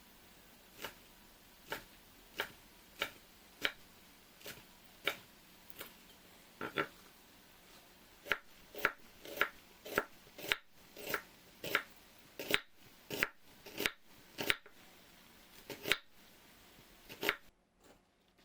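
Kitchen knife chopping on a cutting board in single sharp strokes, at first about one every two-thirds of a second, then quickening to about two a second around the middle, and stopping shortly before the end.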